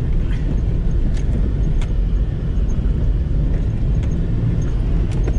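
Inside a 1993 Mitsubishi Delica L300 turbo diesel van on the move: a steady low engine and road rumble, with a few sharp clicks or knocks from the van's body and interior.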